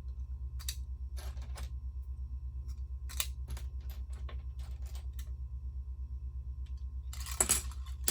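Loose plastic Lego pieces clicking and rattling as they are sorted through by hand in search of a part, with a denser clatter near the end. A steady low pulsing hum runs underneath.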